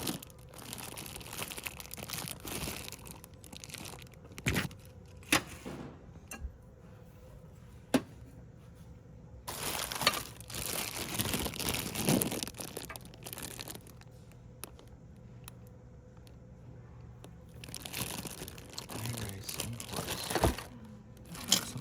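Crinkling and rustling, heard in two longer stretches, with scattered sharp clicks and knocks in between.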